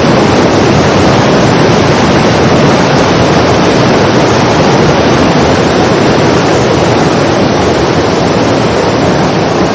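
A waterfall's falling water, a loud, steady rush that does not change.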